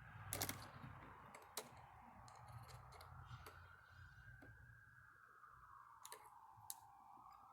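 A handful of faint, sharp clicks scattered over several seconds, typical of small metal distributor parts being handled and set down, over a faint whine that slowly wavers in pitch.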